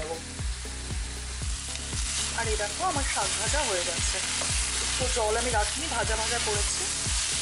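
Leafy greens frying in a stainless steel pan, sizzling steadily as they are stirred and turned with a spatula. The sizzle grows louder about a second and a half in.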